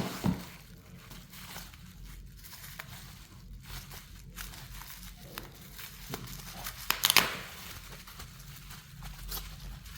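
Scattered crinkling and tearing handling noises, loudest in a short rasping burst about seven seconds in, over a steady low hum.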